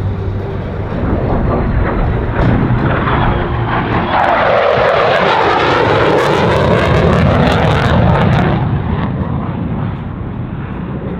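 F-35B Lightning II's single Pratt & Whitney F135 jet engine passing in front of the crowd line: a loud jet noise that builds, peaks for a few seconds in the middle with a sweeping, phasing whoosh, then eases off as the jet moves away.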